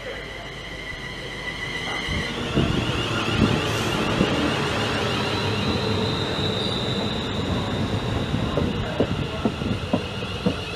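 Train running on the track, with steady high whining tones over a rumble and scattered clanks from the wheels, growing louder about two seconds in.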